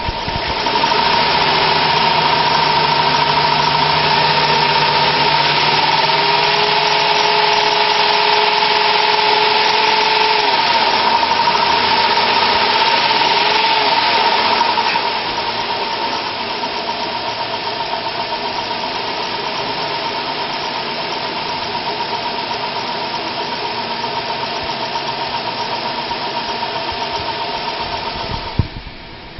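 2002 Dodge Caravan's 3.3-litre V6 running at idle, with a steady high whine over the engine note. It becomes somewhat quieter about halfway through and cuts off shortly before the end.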